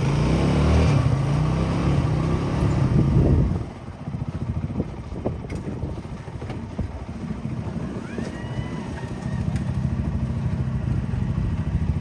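An engine running: loud for the first few seconds, dropping off sharply about three and a half seconds in, then growing louder again near the end.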